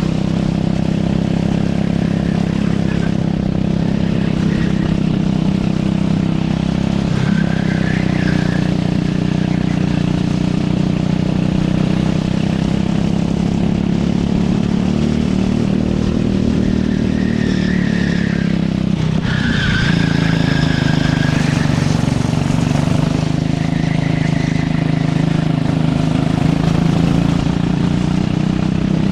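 Race kart engine running hard through a lap, its pitch rising and falling with the throttle, with brief tyre squeals several times through the corners.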